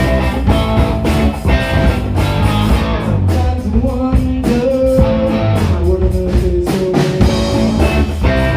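A small live band playing a funky rock number on guitar, bass and drum kit, with a held melody line that slides between notes through the middle.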